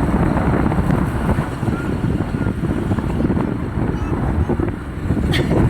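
Steady low rumble of vehicle noise, with wind buffeting the microphone.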